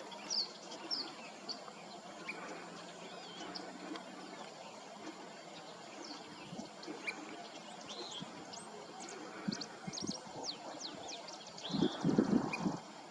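Birds chirping, many short high calls, some quickly falling in pitch, scattered over a steady outdoor hiss. A louder rough rumble rises near the end.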